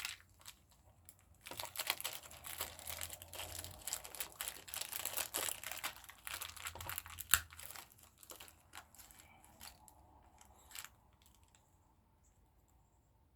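Plastic packaging crinkling and rustling as it is handled and pulled open, with a sharp snap about seven seconds in and another near the end, then a few faint clicks.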